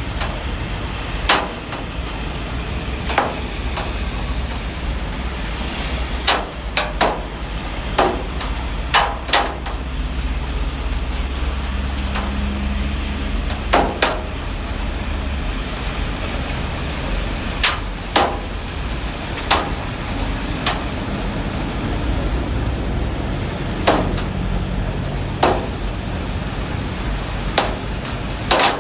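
Heavy rain falling steadily with a strong low undertone, broken by irregular sharp knocks of heavy drops striking a hard surface, one every second or two.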